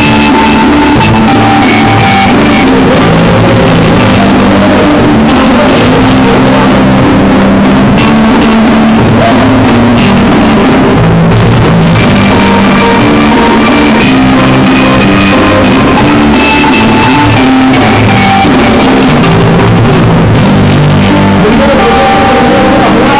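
Loud rock music with distorted guitar and shouted vocals, played live in a large room.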